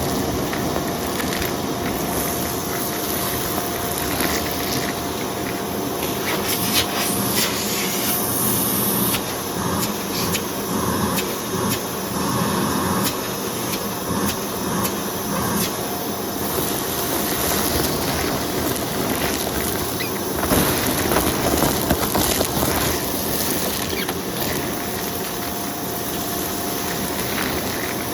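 Vacuum cleaner running steadily, a constant rushing noise with a faint motor whine, and scattered crackles of debris being sucked up, busiest about seven to nine seconds in and again around twenty seconds in.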